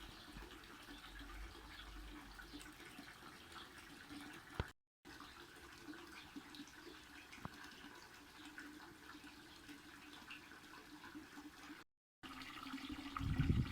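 Faint, steady running water, splashing and trickling, as from a small garden pond waterfall.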